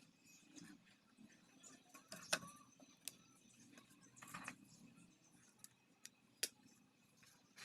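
Faint scattered clicks and taps over a low steady hum, with the sharpest click about two seconds in and another near six seconds.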